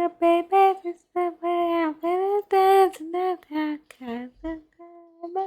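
Unaccompanied singing in a high, clear voice: a string of short phrases with held notes and small slides in pitch, with no backing music.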